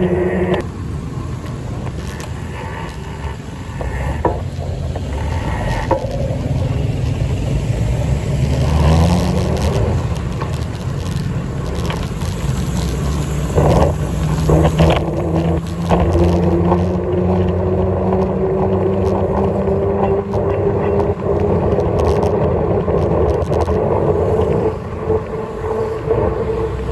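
Motor vehicle engine running while under way, rising in pitch about nine seconds in and then holding a steady note.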